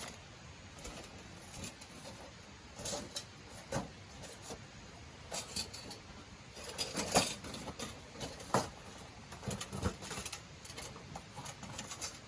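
Thin stainless steel plates of a folding fire pit clinking and scraping against each other as they are fitted and slotted together by hand, in scattered irregular taps that are busiest about seven seconds in.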